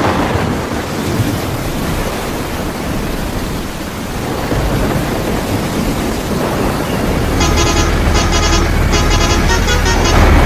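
A rushing, rain-like noise, then a low engine drone comes in with four short blasts of a vehicle horn about seven seconds in.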